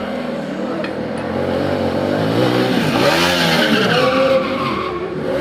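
Ducati stunt motorcycle engine revving up and down hard during a burnout, with the rear tyre squealing. The revs and the tyre noise build through the middle and cut off sharply near the end.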